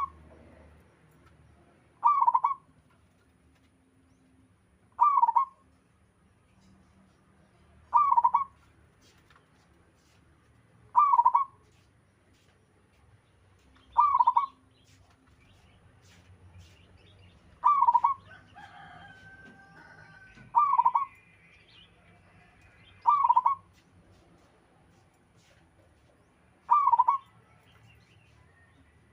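Local zebra dove (perkutut) cooing: a short call repeated steadily about every three seconds, nine times. A fainter drawn-out bird call sounds between the coos around the middle.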